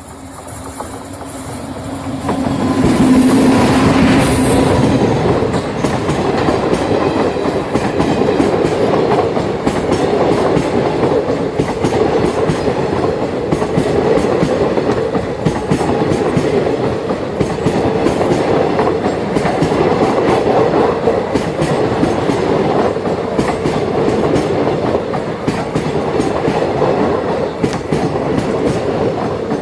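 Express passenger train passing close by at speed: the locomotive arrives loudly about three seconds in, then the coaches rush past with a steady clickety-clack of wheels over the rail joints.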